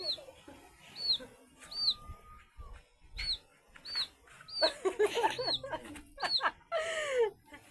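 A bird chirping over and over, a short high note repeating about every half second to second, among village chickens. There are a few louder, lower calls about five and seven seconds in.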